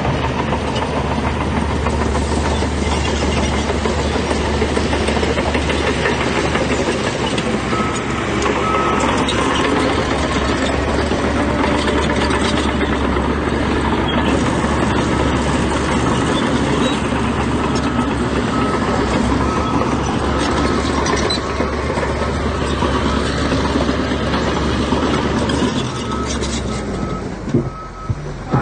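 Heavy diesel earthmoving machinery running hard with a rattling clatter, while a reversing alarm sounds in several runs of evenly spaced beeps. Near the end the engine noise drops off briefly.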